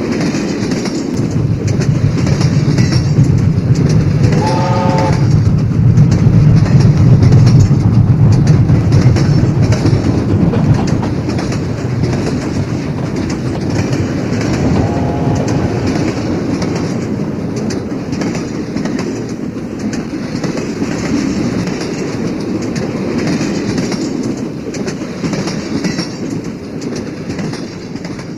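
Freight train rolling past: a steady low rumble with the clickety-clack of wheels over rail joints, loudest in the first third and fading toward the end. A short horn blast sounds about five seconds in, and a fainter one around fifteen seconds.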